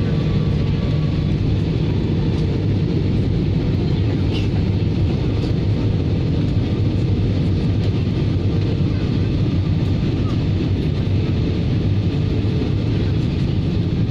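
Steady cabin noise of an airliner in flight: a constant low drone of engines and rushing air.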